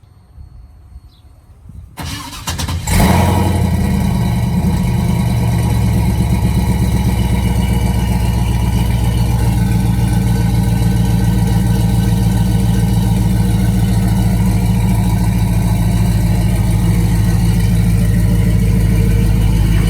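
Pickup truck engine cranking briefly about two seconds in, catching with a loud flare about a second later, then settling into a steady, deep idle.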